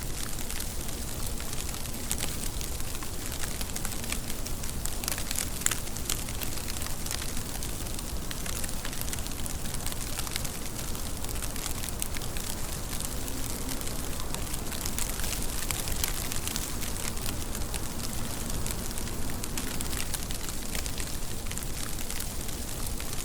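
Steady rain: an even hiss with many sharp, crackly drop hits.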